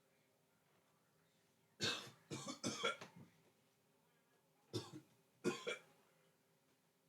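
A boy coughing and clearing his throat, set off by eating stale, expired potato chips: a quick run of three coughs about two seconds in, then two more a few seconds later.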